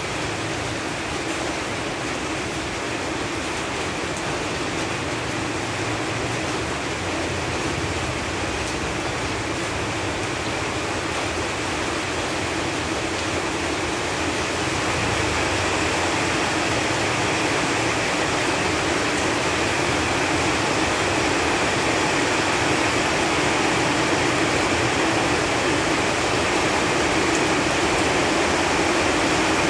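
Steady rain falling on leaves: an even hiss of many drops that grows a little louder about halfway through.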